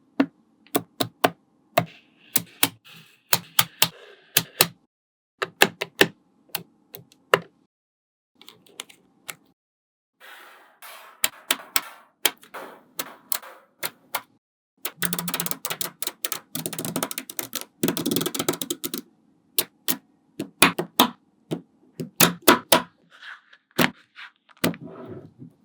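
Small magnetic balls clicking and snapping together one at a time. About fifteen seconds in comes a few seconds of rapid clattering as many balls click against each other at once.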